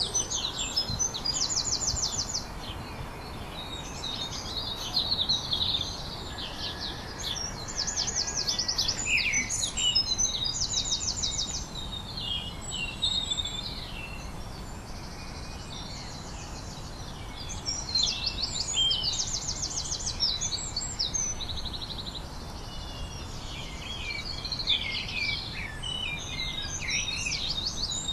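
Several songbirds singing at once, a busy mix of high chirps, warbles and fast trills of rapidly repeated notes that come and go throughout, over a steady low background hiss.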